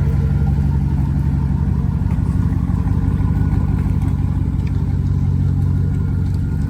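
Truck engine idling steadily soon after a cold start, its first run in about two months; the engine is said to have head gasket problems.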